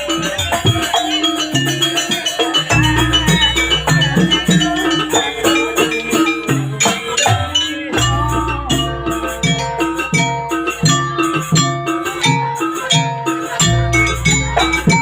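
Live jaranan music from a gamelan-style ensemble: a steady drum-and-percussion beat with rattling accents, quick repeated pitched notes from mallet instruments, and a deep sustained bass tone that comes and goes.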